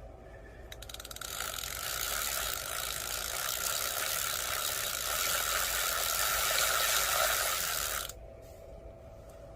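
DIY 72-volt electric motorcycle on the move: a run of rapid ratcheting clicks builds into a steady rushing noise with a faint whine, which cuts off suddenly about eight seconds in.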